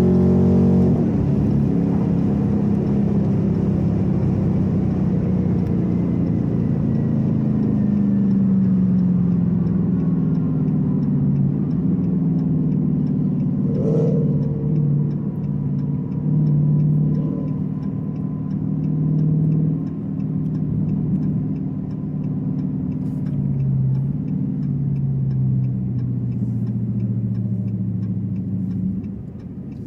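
Car engine running on the road, its low note rising and falling in pitch several times as the car speeds up and eases off.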